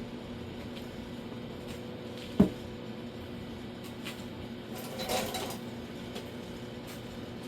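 Hand tools being handled: a single sharp knock about two and a half seconds in and a short metallic rattle around five seconds, with a few faint ticks, over a steady hum.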